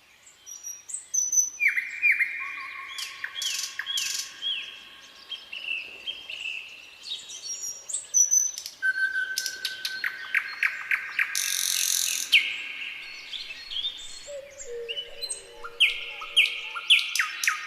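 Several songbirds singing and calling over one another, starting about half a second in: runs of short down-slurred whistles, rapid ticking trills and a buzzy note, with a lower, longer call near the end.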